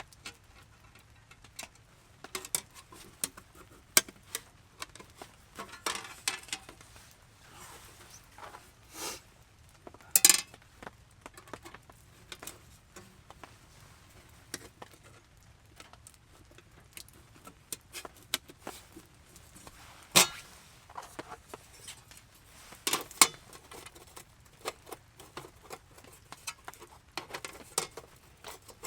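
Scattered clinks, clicks and knocks of hard objects, partly metal, being handled and set down, with a few louder knocks spread through.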